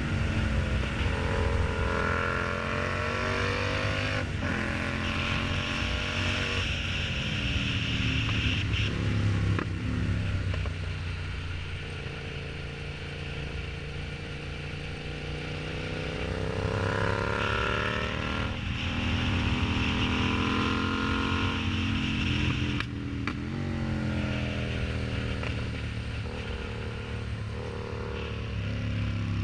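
Yamaha MT-07's 689 cc parallel-twin engine through an aftermarket exhaust, ridden on the road. Engine pitch climbs under throttle several times and drops back sharply in between.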